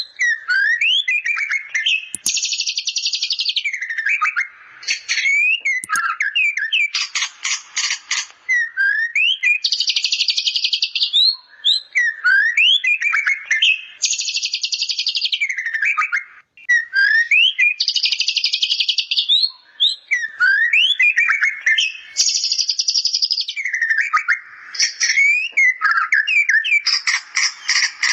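White-rumped shama singing a song loaded with mimicked bar-winged prinia (ciblek) calls: fast, buzzy chattering trills alternating with clear rising and falling whistled notes, the phrase repeating every few seconds.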